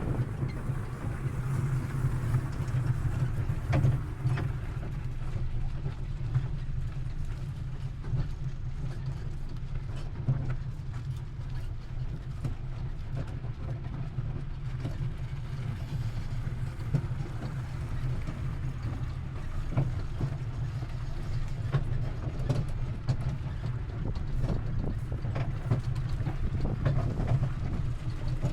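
Outdoor ambience dominated by a steady low rumble, typical of wind buffeting the microphone on a walk, with faint scattered ticks over it.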